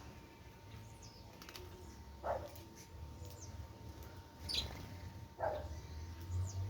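Wild birds chirping at a feeding board: faint high chirps, a sharper high call about halfway through, and two short lower falling calls about three seconds apart, over a steady low rumble.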